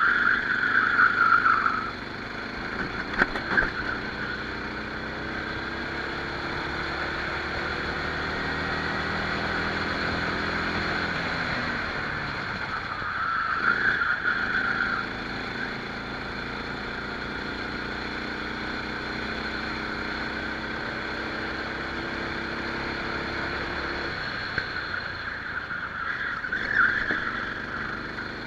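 Rental kart engine heard onboard, revving up over several seconds and then dropping back, twice, with short louder bursts near the start, about midway and near the end.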